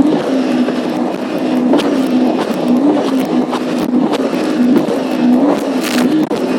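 Jet ski engine running at speed, its pitch wavering up and down, over the rush of water with scattered sharp slaps of the hull on the waves.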